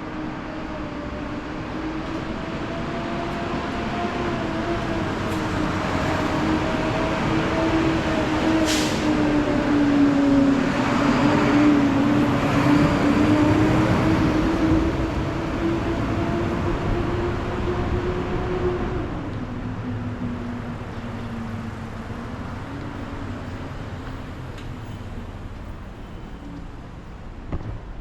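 A vehicle running with a steady droning tone that grows louder toward the middle, then fades, its pitch dropping about two-thirds of the way through. There is a brief sharp hiss about nine seconds in.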